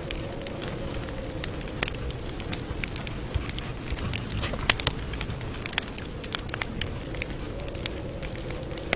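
Campfire burning, with frequent irregular sharp crackles and pops of wood over a steady low rumble of the flames.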